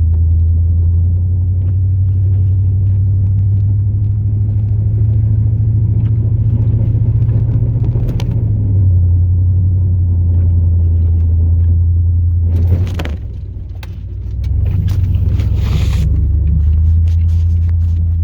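Cab sound of a 2002 Chevrolet Silverado's 8.1-litre big-block V8 gas engine running under way, a deep steady drone that steps down in pitch partway through. Near the end a run of knocks and rattles comes through as the truck rides over rough ground.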